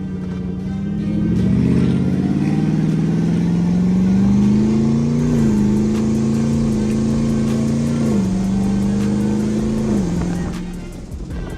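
Twin-turbo Dodge Challenger Hellcat's V8 pulling under acceleration on a test drive with a new torque converter, its pitch climbing and then dropping sharply three times, about five, eight and ten seconds in, as the automatic shifts up.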